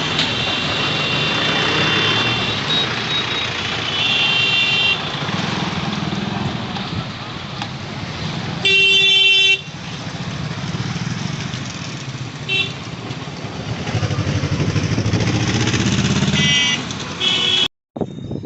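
Motorcycle and other road-vehicle engines running, with repeated horn honking. The loudest is a horn blast lasting about a second, about nine seconds in, and there are a few short toots near the end.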